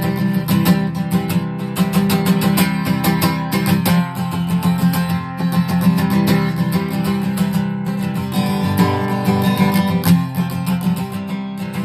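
Guitar playing the instrumental break of a rock-and-roll song, with quick strummed and picked strokes and no singing.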